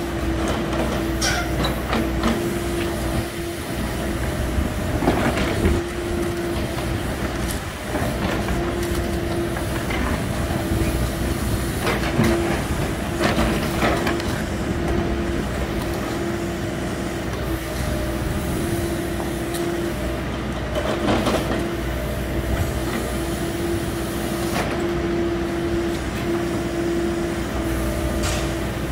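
Hidromek 102S backhoe loader's diesel engine running steadily with a constant hum, with several louder knocks and scrapes from the machine at work.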